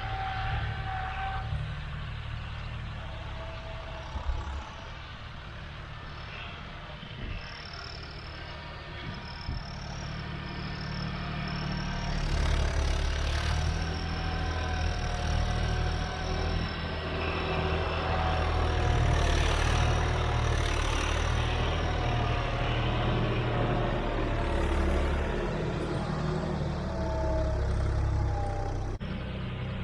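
John Deere 5310 tractor's turbocharged diesel engine running while pulling a tine cultivator, with a thin high turbo whistle over it. The engine grows louder about twelve seconds in.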